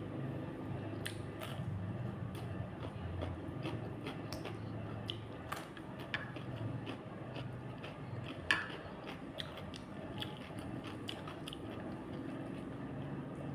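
A person chewing and biting food close to the microphone: a run of irregular wet clicks and crunches, with one sharper crunch about eight and a half seconds in.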